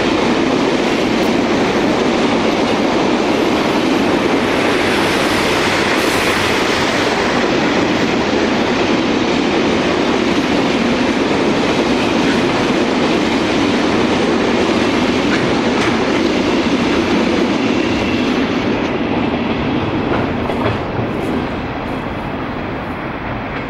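Freight train of empty flat wagons rolling past, a steady noise of wheels on rail that begins to fade in the last few seconds as the train moves away.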